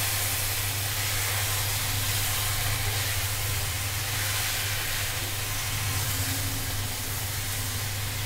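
Peas, potatoes and ground green masala sizzling in oil in a steel kadhai as a spatula stirs them: a steady frying hiss with a low hum underneath.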